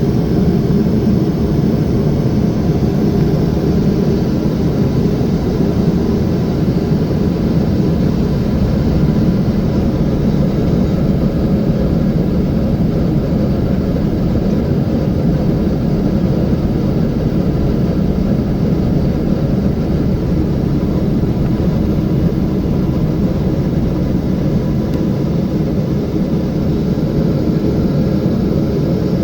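Steady jet airliner cabin noise heard from a seat inside a Boeing 777-300: an even, low rush of engines and airflow with a faint steady hum, unchanging throughout.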